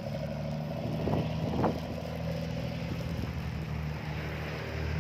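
A steady low engine hum, with two brief sharper sounds about a second and a second and a half in.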